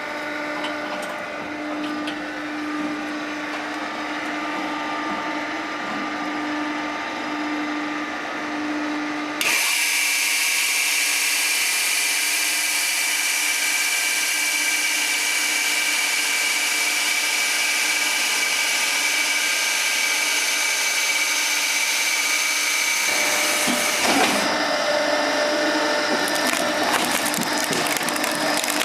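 Electric motor of a small firewood machine running steadily with a hum. About a third of the way in the sound switches abruptly to a higher, hissing whine, and changes again near the end.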